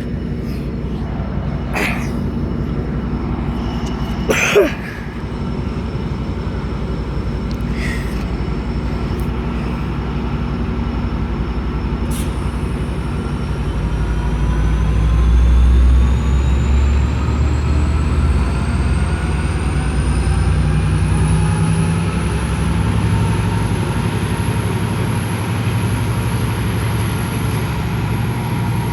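Train running close by: a steady low engine rumble, a few short knocks in the first several seconds, and a whine that climbs in pitch from about halfway through before levelling off.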